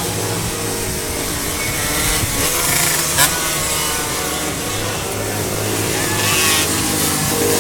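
A vehicle engine running, its pitch rising and falling, with a sharp crack about three seconds in.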